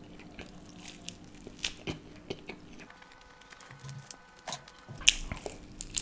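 A person chewing crisp food, with crunches and wet mouth clicks. A loud crunchy bite comes about five seconds in.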